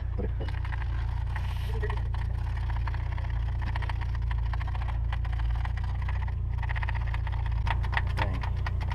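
A steady low rumble, with scattered light clicks and scrapes.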